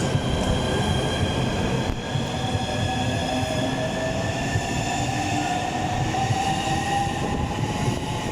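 Southeastern Class 395 Javelin electric multiple unit pulling out, its traction motors whining in several tones that rise slowly as it gathers speed.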